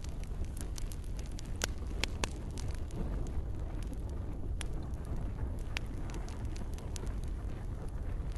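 Campfire crackling, with sharp pops scattered irregularly and a few louder ones about two seconds in, over a steady low rumble, with gentle rain.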